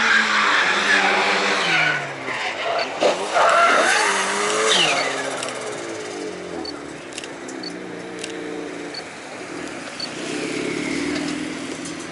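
Drift cars sliding around the track: tyres squealing loudly and engines revving up and down, with the loudest tyre noise in the first few seconds and an engine note falling away about five seconds in, then quieter engines for the rest.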